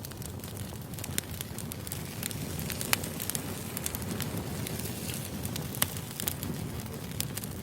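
Firewood burning: a steady low rumble of flames with frequent sharp crackles and pops from the logs, one louder pop about three seconds in.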